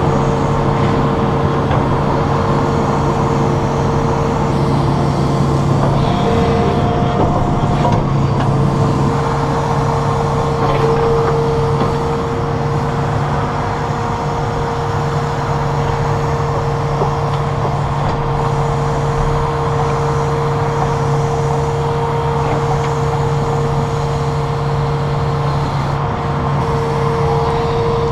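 Heavy diesel machinery running steadily: a constant engine drone with a steady whine above it.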